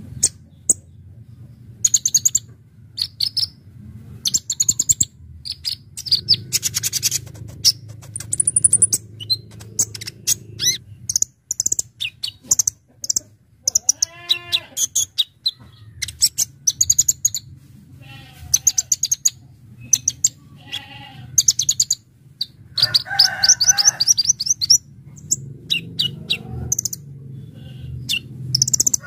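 Kolibri ninja (konin) sunbird singing in rapid runs of very high, sharp chirps, with a lower, wavering call about 14 seconds in. A low steady hum runs underneath.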